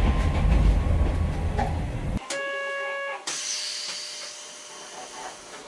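A Hankai Tramway streetcar running with a loud low rumble and rattle, cut off abruptly about two seconds in. Then a steady electronic beep sounds for about a second, followed by a fading hiss of air.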